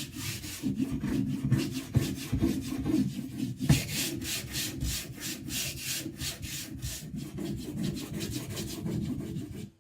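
Gritty scraping strokes on a wet Naniwa Aotoshi whetstone covered in slurry, rubbed quickly back and forth at about four strokes a second. The rubbing stops abruptly near the end.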